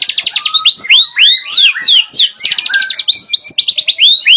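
White-rumped shama singing continuously with canary-style phrases worked into its song: fast trills and strings of quick sweeping whistled notes, with hardly a pause.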